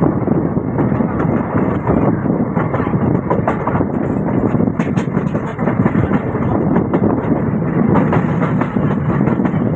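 Passenger train coach running along the track at speed: a steady rumble of wheels on rail mixed with wind rushing past the open window or doorway. A couple of sharp clicks come about five seconds in.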